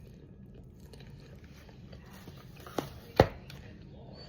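A person eating, with quiet mouth and handling noises and two sharp clicks less than half a second apart about three seconds in, the second louder.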